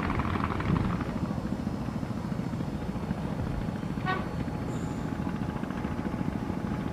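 Steady low rumble of distant town traffic, with one short vehicle horn toot about four seconds in.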